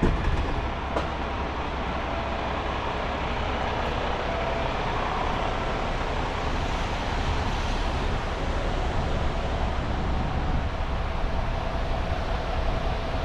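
Steady vehicle and traffic noise on a rain-wet city street, with a faint steady whine.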